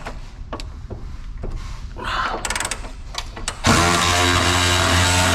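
Scattered metal clicks of a socket and ratchet being fitted to a suspension bolt, then about three and a half seconds in a power tool starts and runs steadily and loudly with an even pitch, driving the bolt with a shallow 18 mm socket.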